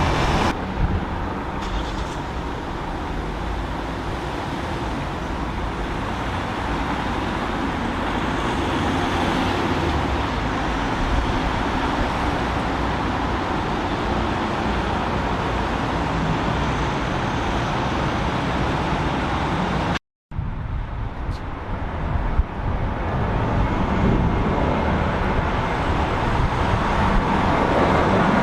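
Jet engine noise of an Airbus A380 climbing away after takeoff, a steady deep rumble. After a sudden cut about 20 seconds in, the noise of another jet, an Airbus A321 departing, swells as it draws nearer.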